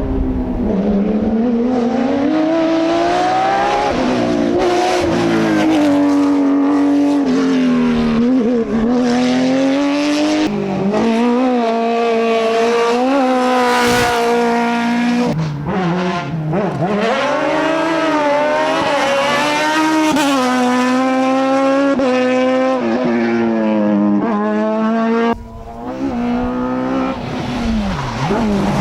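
Hillclimb race car engines at full throttle, revving up and dropping back again and again as they shift gears, the note switching abruptly a few times from one car to another.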